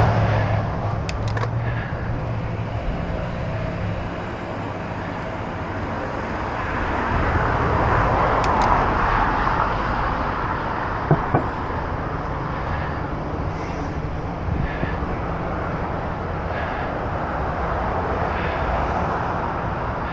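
Steady road and traffic noise heard from a moving bicycle, with wind on the microphone; the noise swells as traffic passes about eight seconds in, and there are a few short sharp clicks.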